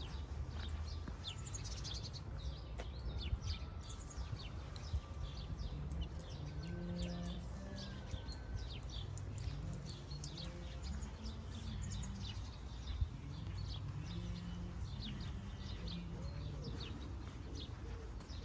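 Small birds chirping repeatedly in short calls over a steady low rumble of outdoor background noise.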